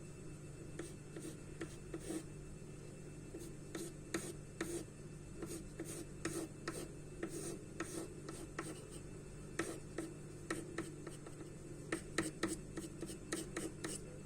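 Charcoal scratching and rubbing on paper in short, irregular strokes, coming more thickly in the second half, over a steady low hum.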